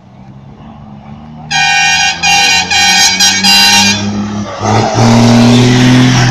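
A truck horn sounds in four short blasts, then a truck engine runs loud close by.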